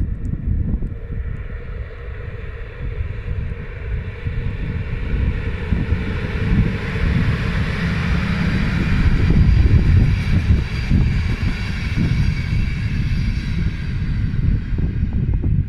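A train passing, its noise growing to a peak a little past halfway and then easing off, with wind buffeting the microphone throughout.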